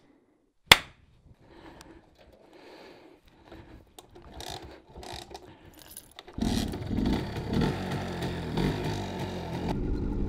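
A sharp snap, then a few seconds of faint rustling and clicking handling sounds. About six seconds in, the 1986 MZ ETZ 250's single-cylinder two-stroke engine cuts in abruptly and runs steadily.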